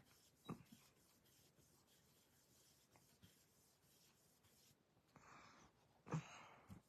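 Faint, scratchy rubbing of an ink blending brush being worked on an ink pad, in two short strokes near the end, with a soft click about half a second in.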